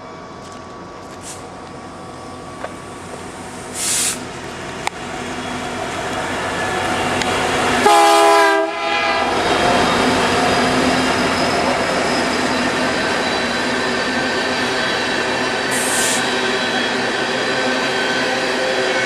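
Diesel freight train approaching and passing. Its rumble builds over several seconds, a short horn blast sounds about eight seconds in, then the train runs past steadily and loudly.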